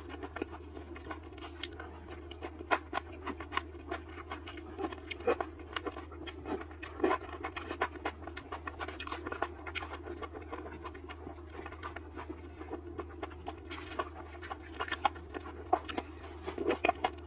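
Close-miked chewing and mouth sounds from eating deep-fried skewered vegetables: irregular wet smacks and crisp clicks, a few louder than the rest, over a steady low hum.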